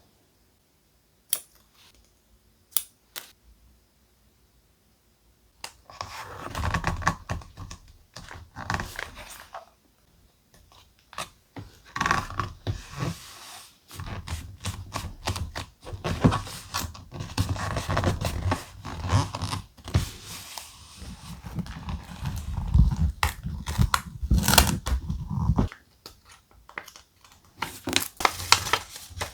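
Thick paper handled close to the microphone, rustling and crinkling in dense, irregular bursts. A few sharp isolated clicks come in the first seconds, and the handling starts in earnest about six seconds in.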